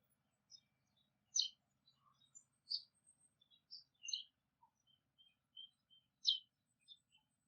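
Wild birds chirping: short, high, scattered chirps and calls, with a few louder ones every second or two.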